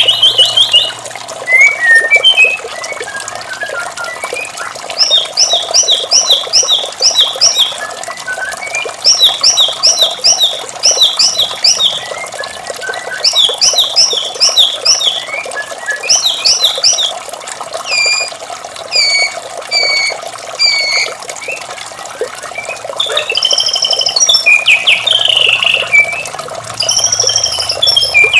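White-rumped shama (murai batu) singing a varied song: quick runs of repeated chirps alternating with slower clear whistled notes, phrase after phrase with short pauses. A steady rush of water runs underneath.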